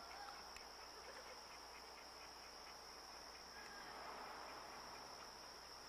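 Faint, steady high-pitched trill of insects, such as crickets, over quiet outdoor background.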